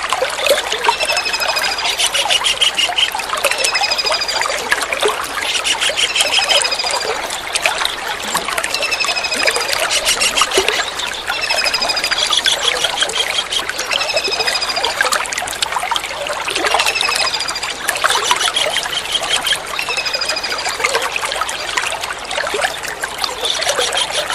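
Kingfisher calls: short, downward-sliding trilled notes repeated about every two seconds, over a steady trickle of running water.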